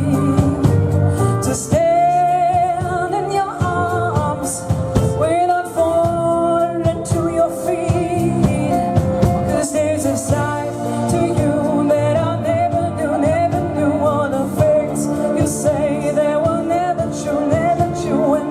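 Big band playing a pop ballad live, with a singer's line carried over the horns, rhythm section and drums.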